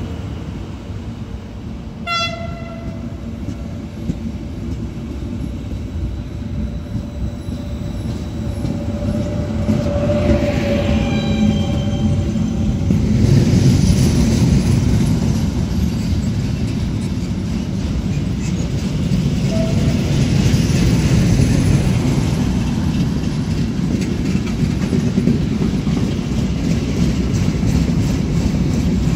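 A train horn gives a short toot about two seconds in and a longer blast around ten seconds in. Then a long freight train of covered sliding-wall wagons rolls past close by, a loud, steady rumble of wheels on rail.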